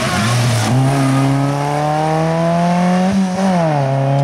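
Small rally car's engine pulling hard under acceleration, its pitch climbing steadily, then falling back about three seconds in and running on steady. A rush of noise comes just before the climb begins.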